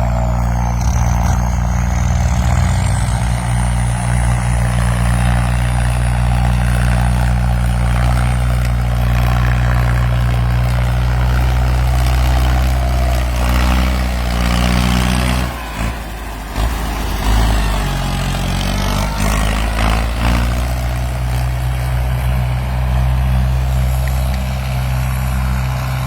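Farm tractor's diesel engine running steadily at working speed. A little past halfway the engine note drops and wavers and the level dips briefly, then it picks back up and runs on steadily.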